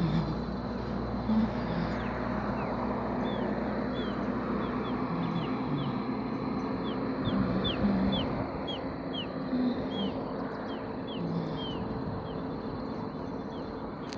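Birds calling outdoors: short low calls now and then, and a high chirp falling in pitch repeated about twice a second for several seconds in the middle, over a steady rushing background noise.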